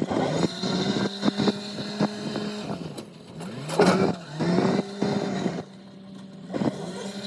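Engine of a farm loader running under work, its pitch dipping and climbing again a little past halfway as it is revved, with rattling and clanking strokes over the hum.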